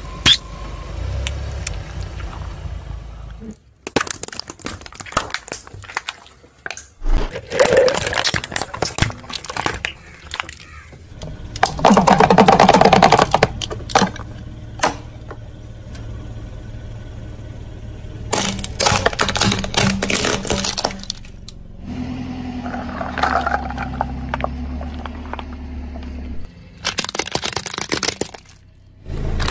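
Objects being crushed under a car's tyres: a run of short pieces of cracking, crunching and snapping, changing abruptly from one object to the next, with a low car engine hum between them.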